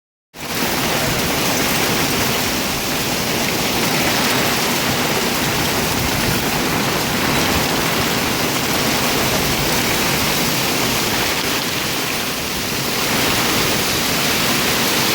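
Heavy thunderstorm rain pouring down in a steady, loud, even hiss.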